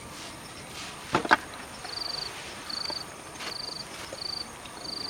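An insect, cricket-like, chirping: five short, high, buzzy chirps at a regular pace of about one every 0.7 s. About a second in, two sharp knocks come close together, the loudest sounds here.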